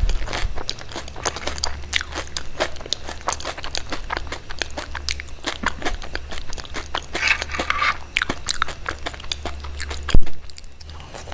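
Close-miked crunchy chewing and biting, a dense irregular run of crisp crunches, over a steady low hum. A single sharp, loud knock about ten seconds in.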